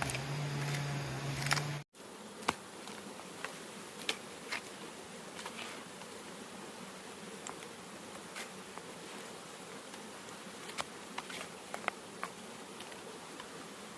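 A steady low hum that cuts off abruptly about two seconds in, then an even insect buzz with scattered light clicks.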